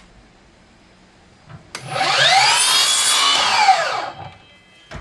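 Cordless chop saw (miter saw) making a 45-degree cut through a wooden strip. The blade spins up with a rising whine, cuts for about two seconds and winds down with a falling whine. A short knock follows near the end.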